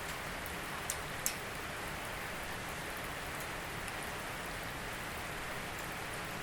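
Steady rain falling, an even hiss with two sharp drop ticks about a second in.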